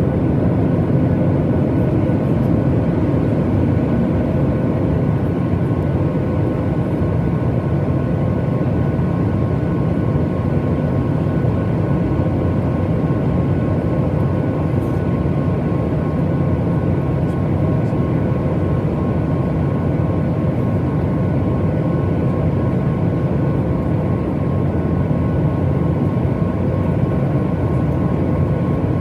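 Steady cabin noise inside a Boeing 737 MAX 8 airliner: the even roar of its CFM LEAP-1B jet engines and the airflow, with a few faint steady tones, holding level throughout.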